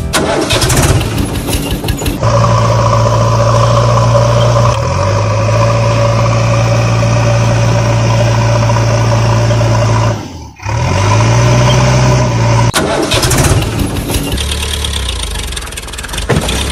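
Heavy diesel engine of a backhoe loader running hard, its pitch rising twice as it revs up. Bursts of clanking and rattling come near the start and again about two-thirds through.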